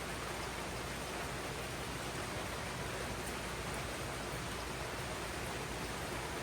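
Steady rain falling on jungle foliage, a continuous even hiss with no separate drops standing out.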